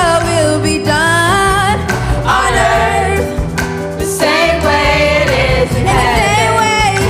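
Gospel worship song performed live: singers' voices with keyboard and bass accompaniment.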